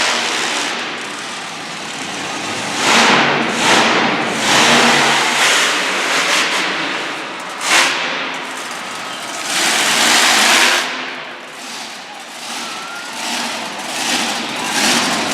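Monster truck engine revving hard in repeated surges, rising and falling several times, with one sharp bang about eight seconds in.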